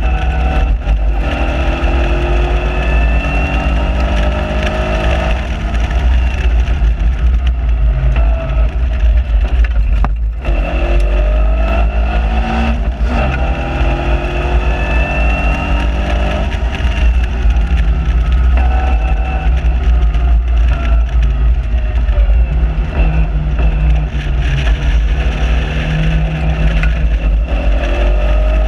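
Onboard sound of a Seven-style open sports car's engine at full pace on track, revving up and falling back repeatedly through gear changes and lifts for corners. A heavy low rumble of wind and road noise runs underneath in the open cockpit.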